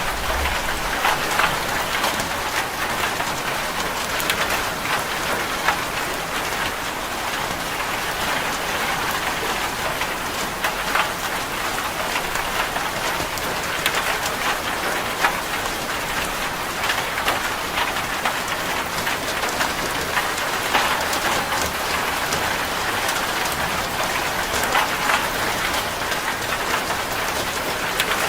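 Steady rain falling on a corrugated zinc roof: an even hiss with many separate drop ticks on the metal throughout.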